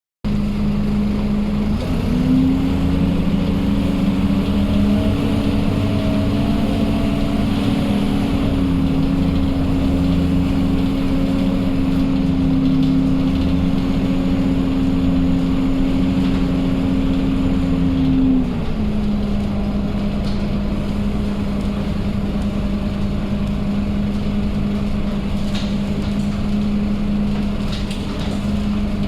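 Scania K230UB bus's 9-litre five-cylinder diesel engine running under way, with a steady engine note. The note steps up in pitch about two seconds in, holds, drops back after about eighteen seconds, and starts rising again near the end.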